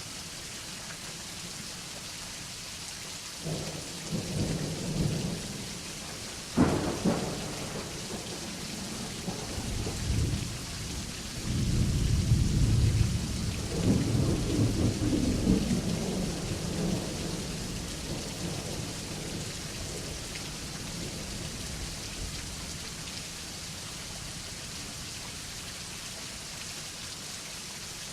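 Steady rain falling, with a thunderstorm passing over: a low rumble of thunder a few seconds in, a sharp thunderclap about a second later, then a long rolling rumble that slowly fades.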